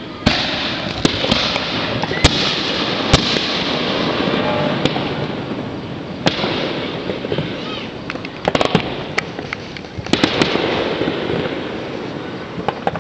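Fireworks and firecrackers going off across a neighborhood: a string of sharp bangs, some in quick clusters, over continuous crackling.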